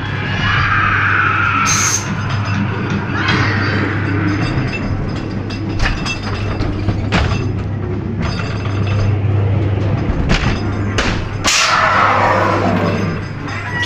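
Ghost train dark ride scare effects: eerie music punctuated by several sudden bangs and crashes over a steady low hum. Near the end, a sound slides downward in pitch.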